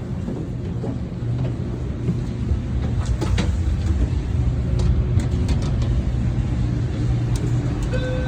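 Metra commuter train rumbling steadily, with a few faint clicks along the way.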